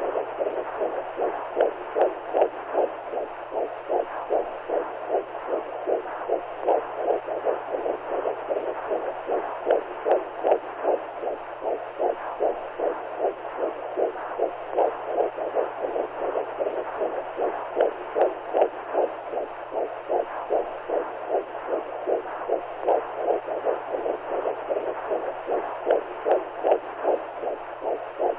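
Womb sound for soothing newborns: whooshing pulses like a heartbeat heard from inside the belly, repeating at an even rhythm over a steady muffled hiss.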